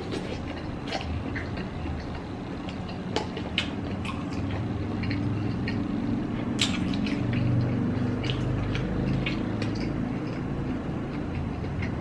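Close-up chewing of a piece of fish cake: wet mouth clicks and smacks scattered throughout, over a low hum that swells in the middle.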